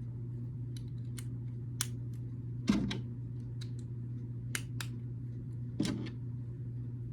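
Small plastic building bricks clicking and snapping as they are handled and pressed together, with two louder snaps about three and six seconds in. A steady low hum runs underneath.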